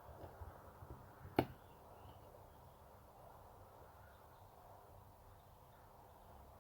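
A few light ticks, then one sharp click about a second and a half in: small tools and tiny screws being handled while refitting parts inside a phone, over faint room tone.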